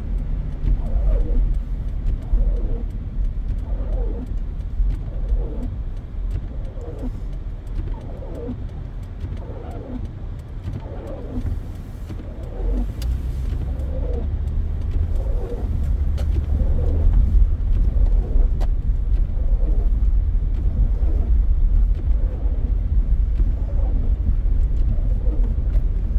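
Low road and engine rumble of a 2006 Toyota 4Runner being driven on snowy streets, growing louder about halfway through. A faint short tone repeats roughly once a second over it.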